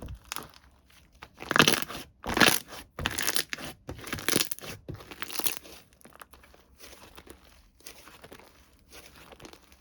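Plastic packaging crinkling and tearing as it is handled, in several loud rustling bursts over the first half, then softer scattered rustles.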